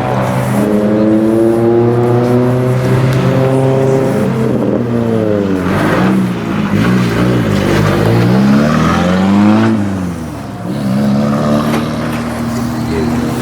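Car engine revving: held at raised revs, then rising and falling several times before settling to a steady idle near the end.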